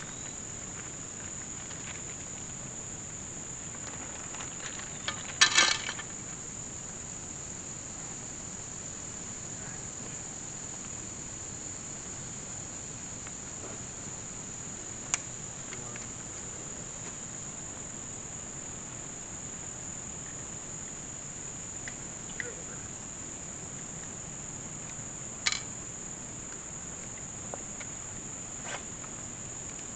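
Steady high-pitched insect chorus running without a break, with a few sharp knocks over it, the loudest a short cluster about five seconds in and single ones later.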